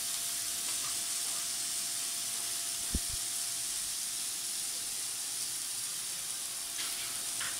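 Cubed potatoes frying in a pan over a gas flame, a steady high sizzle, with a short low knock about three seconds in.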